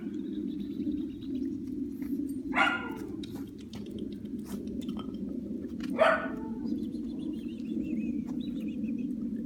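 French Bulldog puppy barking: two short barks about three seconds apart, over a steady low background noise with light scattered clicks.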